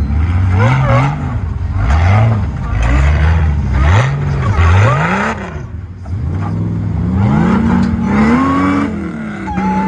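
Supercharged Jeep Wrangler competition truck's engine revving hard in a string of quick blips, then held at higher revs for a couple of seconds near the end.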